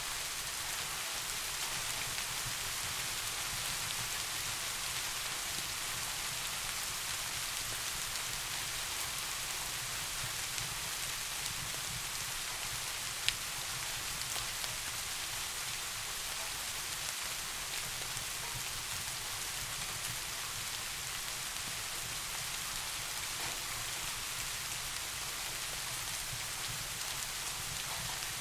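Steady rain falling, an even hiss, over a soft low rumble, with a single sharp click about halfway through.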